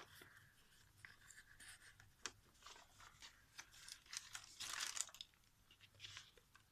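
Paper rustling and light clicks as the pages and paper inserts of a handmade journal are handled, with a longer rustle like a page turning about two thirds of the way through.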